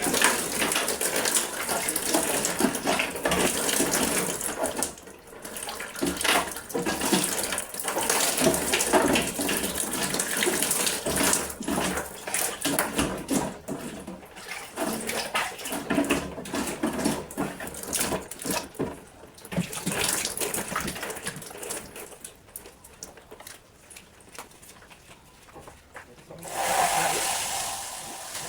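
Water splashing and scrubbing as a refrigerator is washed out by hand, with irregular knocks and clatters. Near the end comes a steadier rush of running water.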